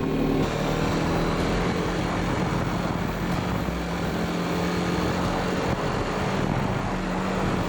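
Motorcycle engine running at a steady cruise, its note holding even, under wind and road noise.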